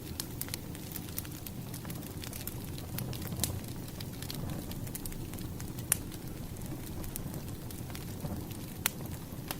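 Firewood burning with a steady low rumble of flame and irregular crackles, with sharp pops about three and a half, six and nine seconds in.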